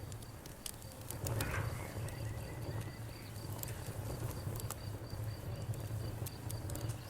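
Wood fire crackling with scattered sharp pops over a low steady rumble, while a cricket chirps in a high, evenly pulsed trill.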